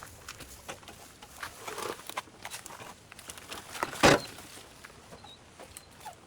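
Overgrown brush and vines rustling and crackling as they are pulled and cleared, with scattered small snaps and one louder snap or thump about four seconds in.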